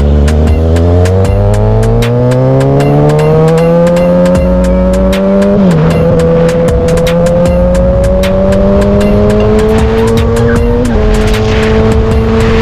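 Motorcycle engine accelerating, its pitch climbing steadily, dropping at an upshift about six seconds in and again near eleven seconds, then climbing again. A regular clicking, about three a second, runs over it.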